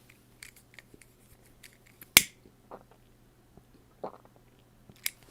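Scattered faint clicks and one sharp snap about two seconds in, over a low steady hum.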